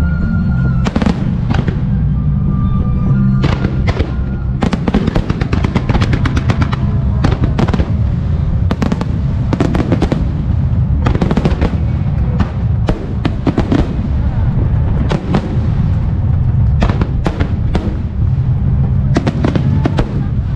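Music starmine fireworks: rapid volleys of shell bursts and crackles, thickest from about five seconds in, over music played for the show.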